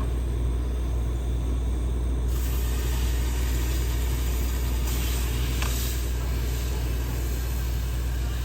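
Propane camp stove burner running with a steady low rumble. About two seconds in, a sizzling hiss joins as bacon cooks in the hot pan.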